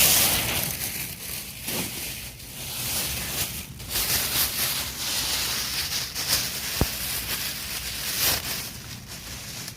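Pine-cone and wood campfire burning, a steady hiss with frequent crackles and pops as the pine cones catch.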